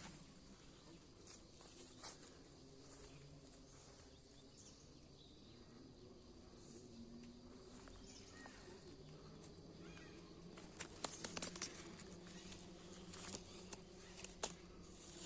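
Near silence: faint outdoor background, with a few faint sharp clicks about two-thirds of the way in and once more near the end.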